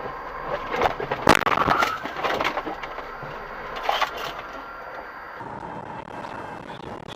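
A car collision: a loud sharp crash about a second in, followed by a few more knocks and crunching. A steady hum of traffic or engine noise runs underneath.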